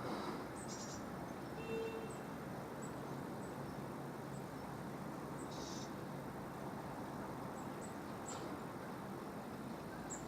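Steady outdoor background noise with short, high bird chirps scattered through it.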